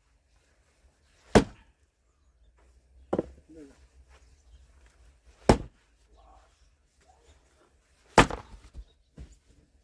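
Firewood being split by hand with an axe: four sharp chopping strikes about two to two and a half seconds apart, the third and fourth the loudest, with a light knock of wood after the last.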